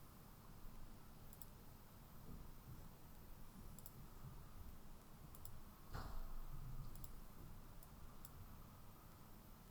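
Faint computer mouse clicks, a few scattered at uneven intervals over a low steady room hum, with one slightly louder knock about six seconds in.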